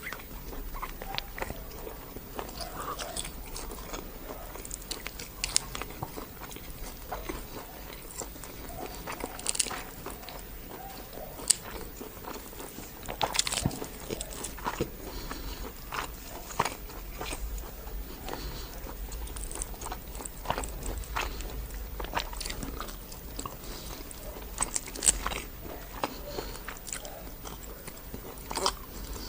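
Close-miked eating sounds: a person chewing and biting into spicy karahi, with irregular sharp crunchy clicks and wet mouth noises.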